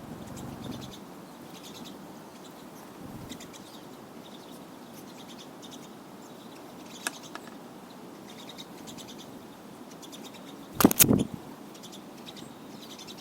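A flock of pine siskins twittering, with many short high chirps scattered throughout. Near the end comes one brief, loud double thump.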